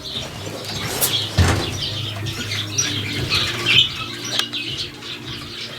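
Birds chirping and fluttering their wings in a pen, with short scattered chirps over a steady low hum.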